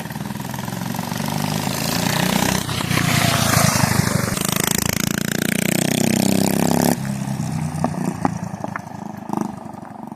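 Mini bike's small single-cylinder engine, fitted with a PZ19 carburetor, revving up under throttle. About seven seconds in the throttle is cut, and the exhaust pops several times as the engine slows.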